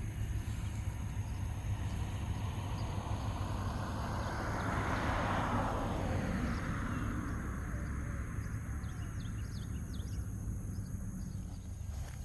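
A vehicle passing on a nearby road, swelling to its loudest about five seconds in and then fading, over a steady low rumble. Faint short bird chirps come in near the end.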